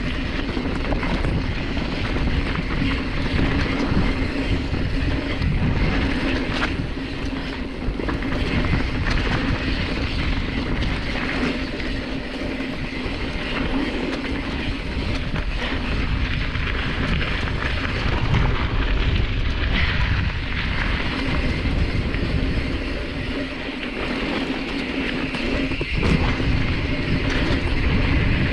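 Mountain bike (Specialized Stumpjumper) rolling over a rough dirt trail: a continuous rattling rumble from the tyres and bike over stones and ruts.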